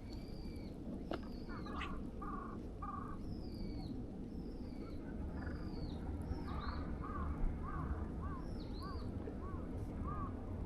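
Several birds calling: repeated short high whistles that fall in pitch, and from about two seconds in a series of lower short calls, repeated roughly twice a second in the second half, over a steady low background rumble.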